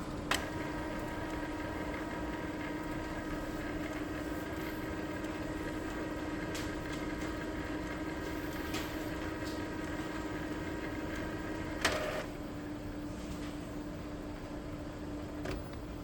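Epson L3256 inkjet printer running an internal cycle after a printhead replacement: a steady motor hum with a high whine that starts with a click and stops with a clack about twelve seconds in, followed by a few light clicks as the printer settles to standby.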